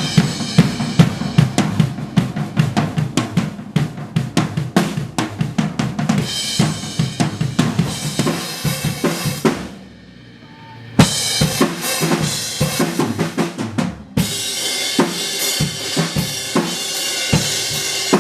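Acoustic drum kit being played for a recording take: kick, snare and cymbals in a steady beat. It stops for about a second near the middle, then starts again, with more cymbal wash in the last few seconds.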